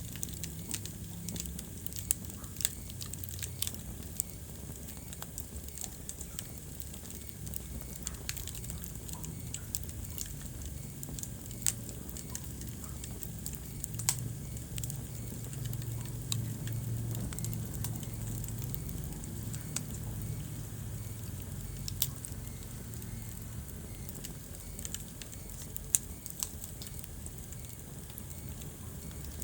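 Wood fire burning in a fireplace: a steady low rumble of flames with irregular sharp crackles and pops, a few of them much louder snaps.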